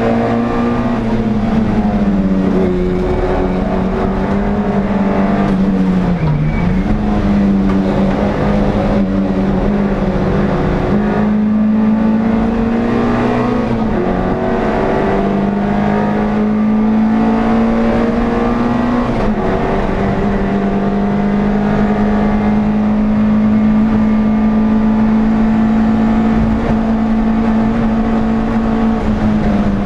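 Air-cooled four-cylinder engine of an NSU TT racing car heard from on board, running hard at high revs. Its pitch climbs slowly and dips sharply a few times as the driver shifts or lifts for corners.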